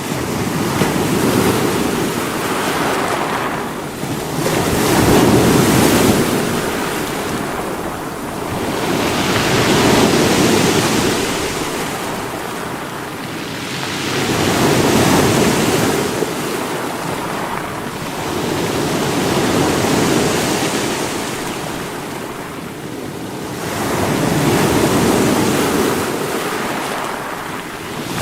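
Sea waves breaking against rocks, each surge swelling and then falling back, about every five seconds.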